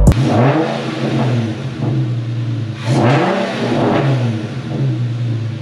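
Infiniti G37's 3.7-litre V6 revving several times in a row, the engine note climbing and dropping back with each blip of the throttle.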